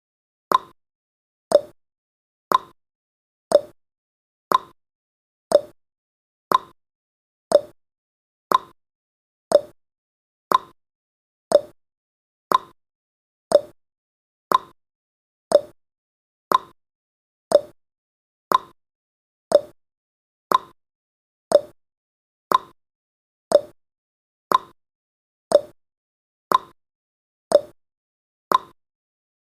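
Countdown timer's clock-tick sound effect: a sharp tick once a second, alternating between a higher and a lower tick like a tick-tock.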